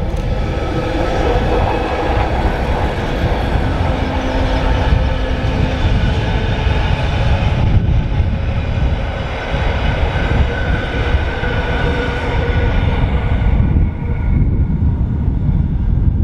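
Rhaetian Railway ABe 8/12 Allegra electric train hauling red coaches passing close by on metre-gauge track: steady running and wheel noise with a faint motor whine. It fades about 14 seconds in as the last coach goes by, over a low wind rumble on the microphone.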